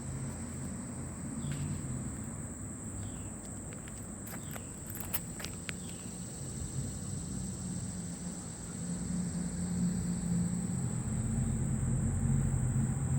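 Late-summer insect chorus, a steady high-pitched trill, with a low rumble underneath that grows louder in the latter part and a few short clicks near the middle.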